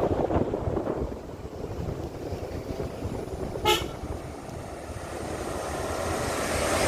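A vehicle horn gives one short toot about three and a half seconds in, over continuous road and engine noise from a moving vehicle.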